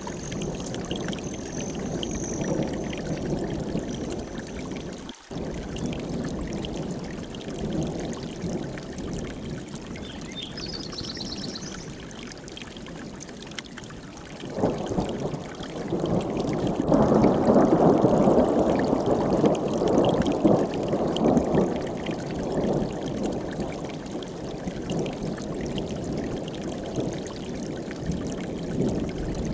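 Mountain stream rushing steadily over rocks, growing louder for several seconds about halfway through. A faint high bird call and a short trill sound over the water early on.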